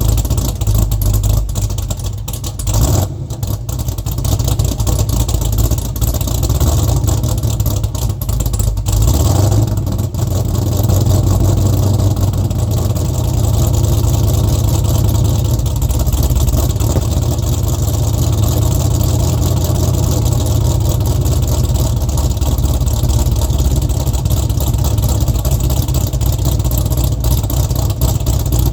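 Exhaust of an LS-swapped Mach 1 Mustang's V8 running, loud and steady with deep low-pitched energy. The sound changes briefly about three and nine seconds in.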